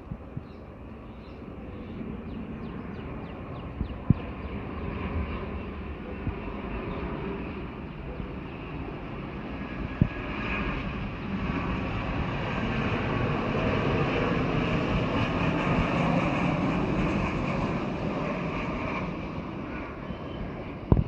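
Jet airliner passing close on its landing approach, the engine noise swelling to a peak and then starting to fade. There are a few sharp knocks along the way.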